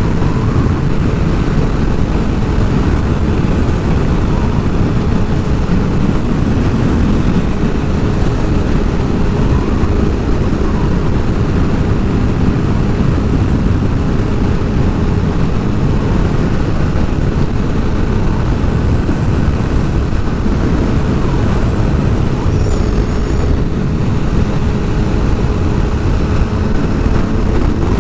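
Sport motorcycle cruising at a steady speed: heavy wind rush over the microphone with the engine running underneath at an even pitch.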